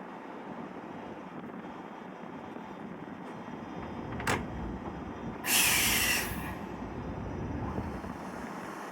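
A train standing or moving slowly at a station platform, with a steady low rumble. A sharp click comes about four seconds in, then a loud burst of compressed air from the train's pneumatic system hisses for under a second.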